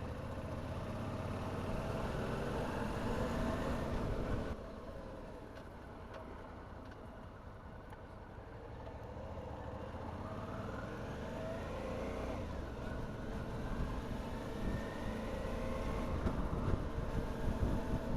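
Motorcycle engine pulling under throttle with rising pitch, shutting off abruptly about four and a half seconds in, then building up again through the second half, over a low rumble of wind on the microphone.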